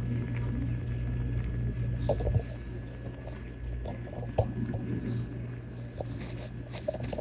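Steady low hum with a few faint clicks and soft rustling noises; no meowing.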